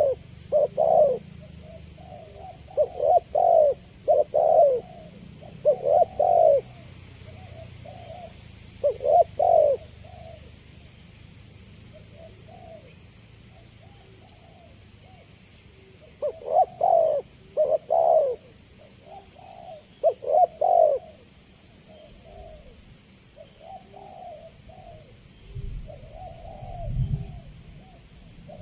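Spotted dove (tekukur) cooing in repeated phrases of two or three low coos, with fainter coos between the loud phrases. A steady high hiss runs underneath, and a low rumble comes near the end.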